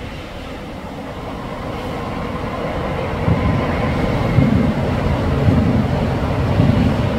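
Electric multiple unit train pulling in alongside the platform, its rumble growing louder as it nears and passes close, with a regular low thump about once a second as the carriages go by.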